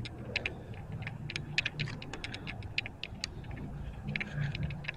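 Footsteps crunching over debris on a littered floor: a run of irregular sharp clicks and crackles, several a second, over a low steady hum.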